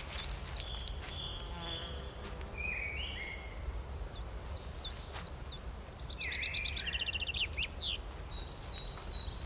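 Summer meadow insects chirping steadily, several short high chirps a second, with birds singing short whistled notes and a brief rapid trill a little after the middle.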